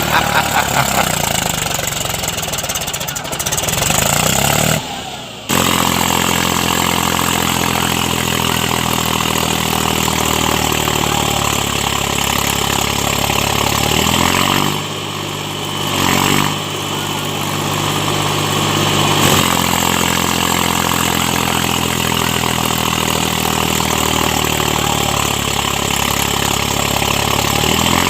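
Tractor engine running steadily, with a brief cut-out about five seconds in.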